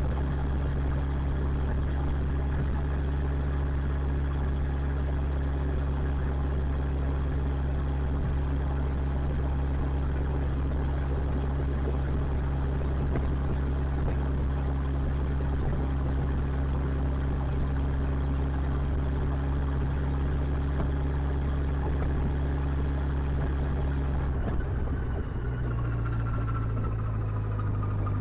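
Motorcycle engine running steadily under way, with a haze of wind and road noise; near the end the engine note changes.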